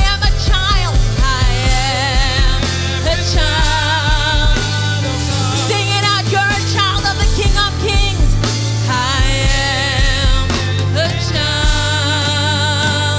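Gospel worship song performed by a band: a steady bass line under a sung melody with vibrato.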